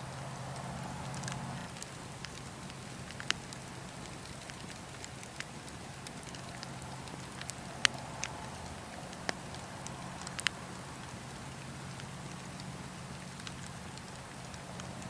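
Wood fire burning with a steady low rush and scattered sharp crackling pops, a handful of them, the loudest about eight seconds in.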